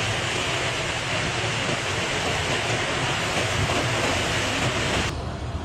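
Storm noise of heavy rain and wind, a steady rushing roar that cuts off suddenly about five seconds in.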